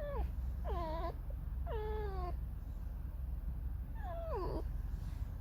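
Pet fox making squeaky, whining calls: four drawn-out cries, each falling in pitch, the first three close together and the last after a pause of about two seconds.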